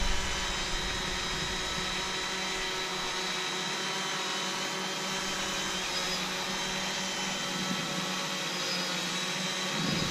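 UpAirOne quadcopter drone's electric motors and propellers whining steadily in flight, with several high-pitched tones held level. A high-pitched squeal in the motor sound is taken by the owner as a sign that one of the motors is damaged.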